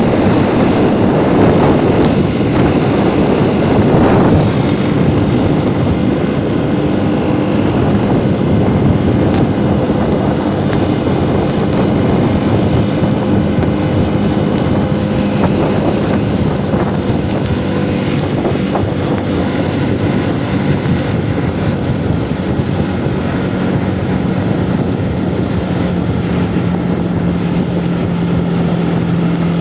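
Aprilia Tuono 125 single-cylinder four-stroke engine running while riding, with a steady rush of wind and road noise. The engine pitch shifts up and down, then holds steady near the end.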